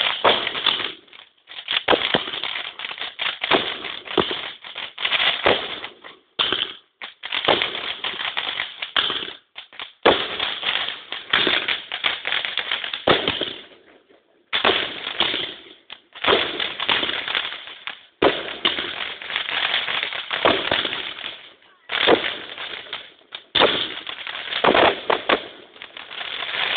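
Fireworks going off: dense crackling and bangs in bursts a few seconds long, broken by short pauses.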